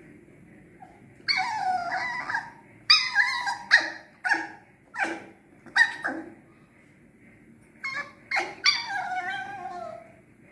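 A puppy whining and yipping: a drawn-out whine, then a run of short yips, then another long whine that slides down in pitch near the end.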